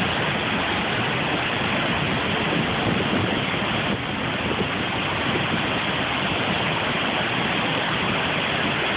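Niagara Falls: a steady, loud rush of falling water.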